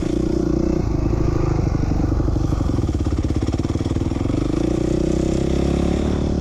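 450cc four-stroke motocross bike engine running on and off the throttle while riding a rutted track section. The pitch drops after about a second and rises again near the end as the rider gets back on the gas.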